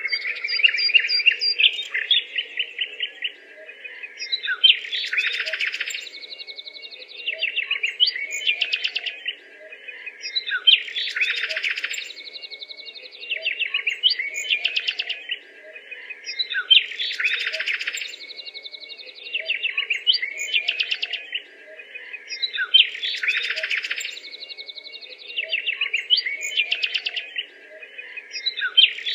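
Birdsong chirping in a recording that loops, the same phrase of quick chirps coming back about every six seconds, with a faint steady tone underneath.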